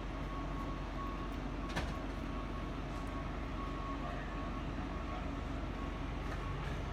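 Steady city street noise with a low vehicle engine hum, a thin steady high tone that wavers in strength, and one sharp click a little under two seconds in.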